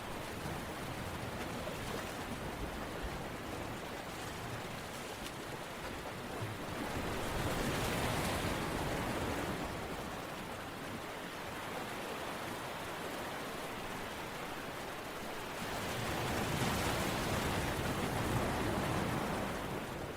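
A steady rush of water noise, rain or surf, with no distinct drops or tones. It swells louder twice, once about a third of the way in and again near the end.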